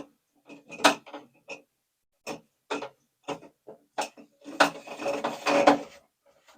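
Irregular clicks and knocks of a new toilet tank and its fittings being handled and fitted, then about a second and a half of scraping near the end.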